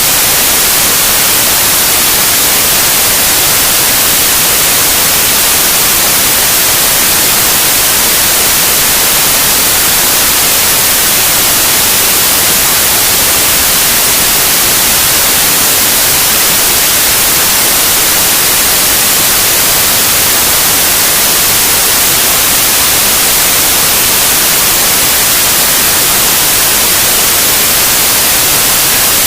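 Loud, steady white noise: an even, unchanging hiss with most of its energy in the high frequencies.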